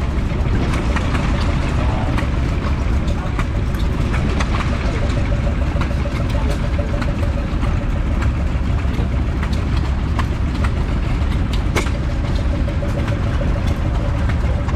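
Old stationary engine running steadily at idle, with a strong low hum and scattered sharp ticks.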